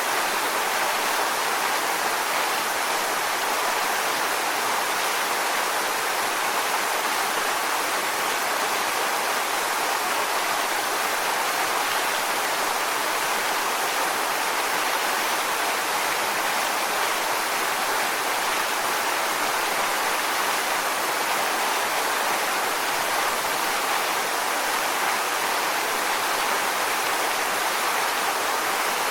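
Waterfall: water falling and splashing onto rocks, a steady, even rushing with no change.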